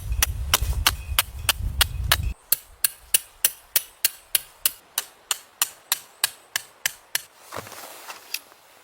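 Rapid, evenly spaced sharp knocks, about four a second, as from chopping or hammering, with a low rumble over the first two seconds. The knocks thin out after about seven seconds.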